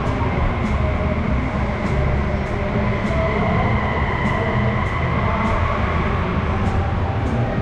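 Steady low rumble of a large, busy exhibition hall, with a faint high whine held over it.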